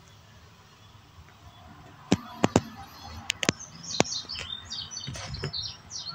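A handful of sharp clicks about two seconds in, then a small bird chirping in quick, short high notes through the second half.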